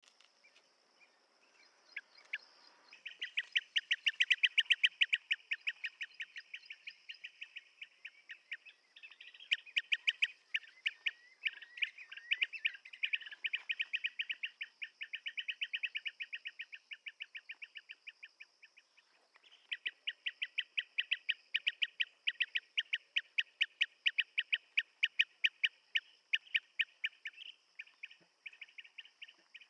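Blue-tailed bee-eater calling: long runs of rapid, rolling short notes in three bouts, with a brief break between them, over a steady high insect buzz.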